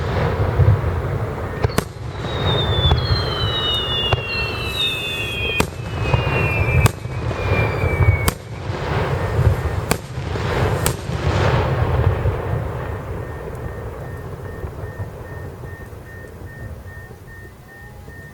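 Fireworks display: a run of sharp bangs from bursting aerial shells over a heavy low rumble, with a few descending whistles in the first half. The bursts stop about twelve seconds in, and the rumble fades away.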